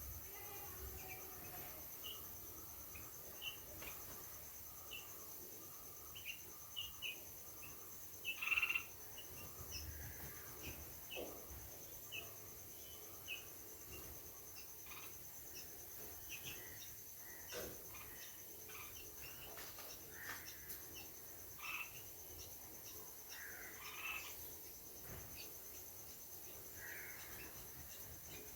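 Faint steady high insect trilling, like crickets, with many short scattered chirps over it.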